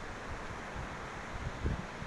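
Steady wind noise on the microphone, with a low gusty rumble near the end.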